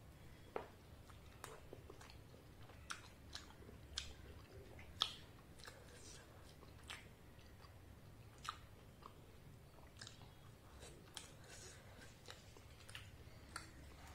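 A person chewing and biting luchi (puffed fried bread) with ghugni curry, with irregular sharp mouth clicks throughout; the loudest click comes about five seconds in.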